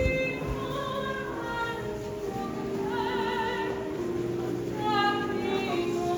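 Operatic singing: a voice holding long notes with a wavering vibrato, moving from note to note.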